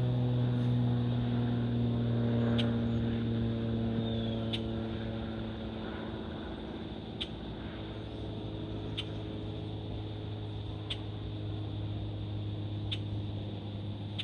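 An airliner's engines passing overhead and fading as it moves away, with a steady low drone and engine tones slowly falling in pitch.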